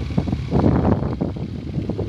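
Heavy wind buffeting the microphone over a motorcycle's running engine while riding at speed, the gusts getting louder about half a second in.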